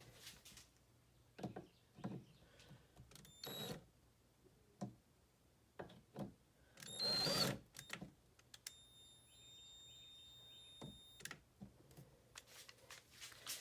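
Scattered light knocks and clicks of handling, with a short, louder rush of noise about seven seconds in and a thin, steady high tone for a couple of seconds after it.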